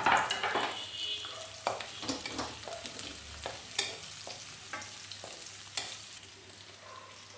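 Sliced onions and green chillies sizzling in hot oil in a metal kadai while a slotted spatula stirs them, with sharp scrapes and knocks of the spatula against the pan. The sizzling starts loud and gradually dies down.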